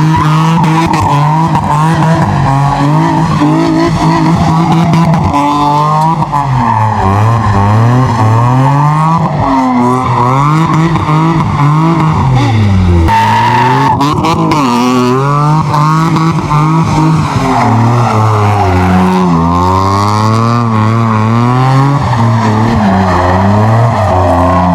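A car's engine revving hard, its pitch swinging up and down over and over, with tyres squealing as the car spins its wheels in a burnout or donuts.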